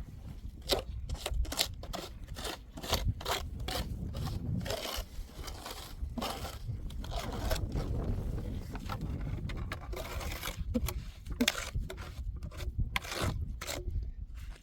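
Irregular scraping, with many sharp clicks and knocks in between, as of hand work with tools or materials.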